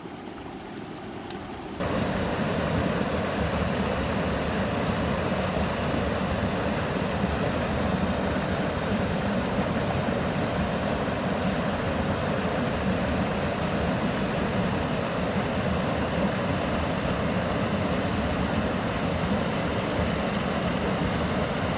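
Fast-flowing spring water rushing and splashing into a rain-swollen creek. It is a steady rushing noise that becomes much louder and closer about two seconds in.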